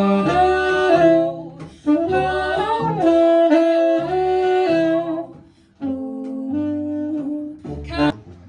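Live band playing a song: a saxophone plays long held melody notes over guitar and bass, with a short break about two thirds of the way through before the next phrase.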